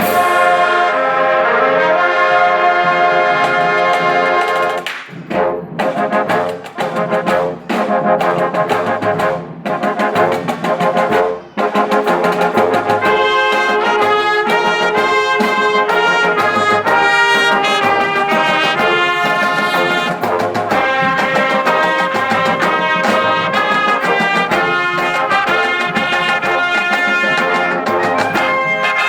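High school marching band playing, brass leading. It starts abruptly with a loud held chord for about five seconds, then short brass figures broken by sharp percussion hits, then the full band plays a continuous moving melody.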